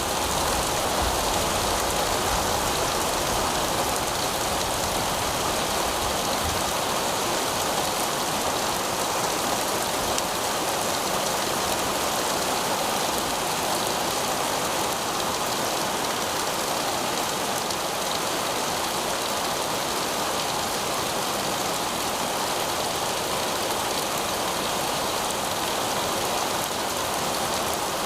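Heavy rain falling steadily on pavement, an even hiss of drops.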